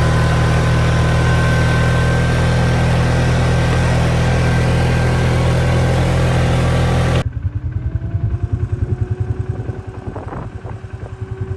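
ATV engine running loud and steady under way. About seven seconds in, the sound cuts abruptly to a quieter, low-revving engine beating in rapid even pulses.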